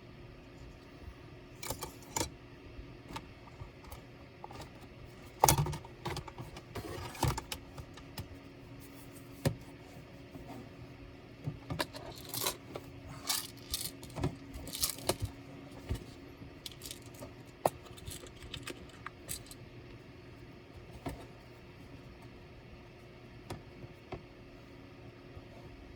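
Scattered clicks, taps and small metallic and plastic clatters from laptop parts, screws and tools being handled during disassembly, with one louder knock about five and a half seconds in.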